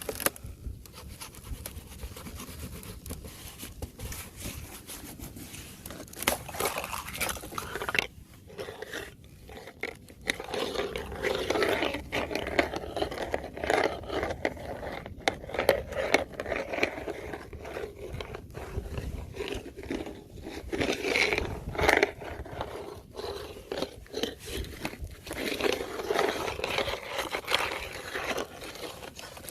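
Fresh ice being scraped and crunched: a dense, irregular run of scratching and cracking strokes, with a brief lull about eight seconds in.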